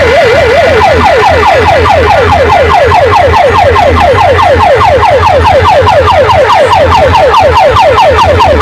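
Electronic siren effect blasted over a large DJ sound system. A fast warble switches, under a second in, to rapid falling sweeps, about five a second, over a steady deep bass hum.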